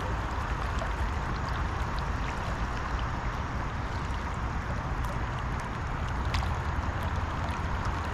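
Steady rushing of a fast river current, with a low rumble underneath and a few faint ticks.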